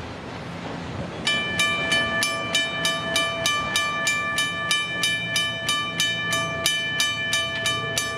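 Western Railroad Supply mechanical railroad crossing bell starts ringing about a second in, striking evenly about three and a half times a second, each stroke leaving a steady ringing tone with several overtones.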